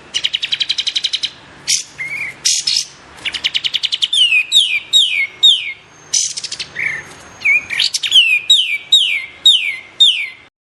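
Kapas tembak bird song: fast rattling trills alternating with runs of quick, high, down-slurred whistled notes, repeated about twice a second. It cuts off abruptly near the end.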